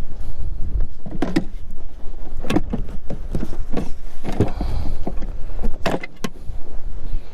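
Strong wind buffeting the microphone as a continuous low rumble, with about five separate knocks and scrapes of gear being handled.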